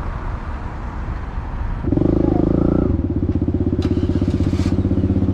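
Pit bike's small single-cylinder engine idling, then revved about two seconds in and held at higher revs with an even, rapid firing pulse.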